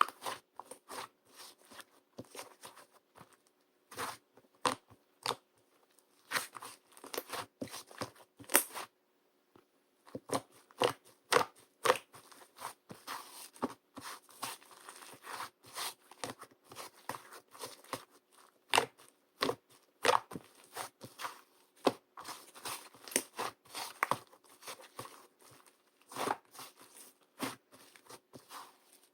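Light-green slime being squeezed and poked by hand, giving a dense, irregular run of crunchy crackles and clicks, with a brief pause about nine seconds in.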